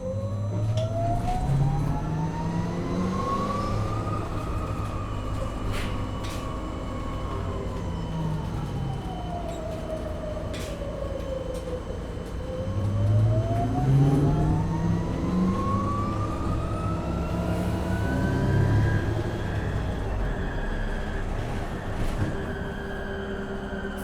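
2015 MAN Lion's City hybrid city bus heard from inside: the drive's whine rises in pitch as the bus speeds up for about four seconds, sinks steadily as it slows until about twelve seconds in, then rises again as it picks up speed. Under it runs a steady low drone, with scattered sharp clicks and rattles.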